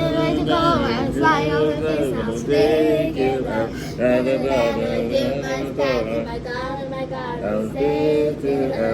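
Children singing a song unaccompanied, voices gliding between held notes.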